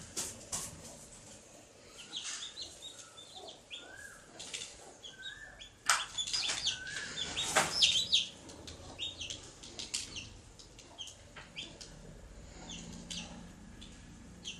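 Baby chicks peeping in short, high chirps, scattered through the whole stretch. Mixed in are noisy scratchy rustles, loudest about six to eight seconds in.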